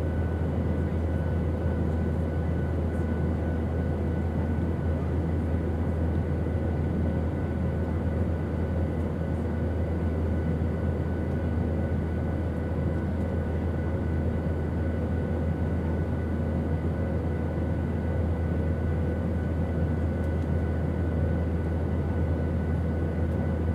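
Airplane engines droning steadily: a deep, even hum with a few faint steady whining tones above it, unchanging throughout.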